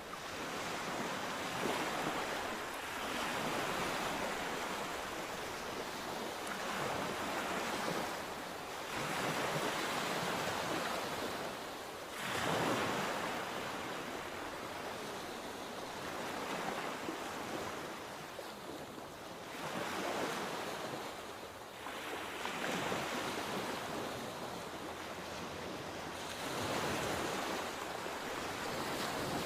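Sea waves breaking and washing on the shore in a steady, unbroken surf, swelling every few seconds, with one larger wave about twelve seconds in. Wind buffets the microphone.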